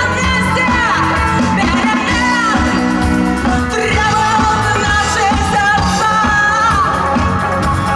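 Live rock band playing with a sung vocal line over guitars and drums, loud and steady.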